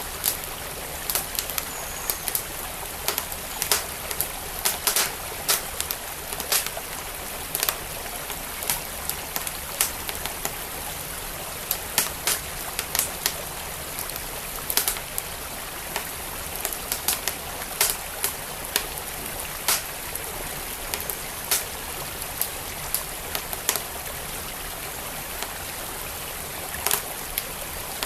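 Wood fire crackling with sharp, irregular pops over the steady rush of a flowing stream.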